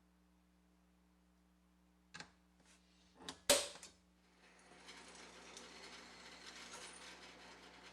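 A few sharp clicks and knocks, the loudest about three and a half seconds in, then a steady hiss that sets in about a second later and holds.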